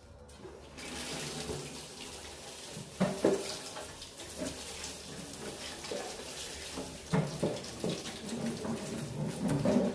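Water running from a tap in a steady hiss that starts about a second in, with irregular splashes and knocks as something is washed under it.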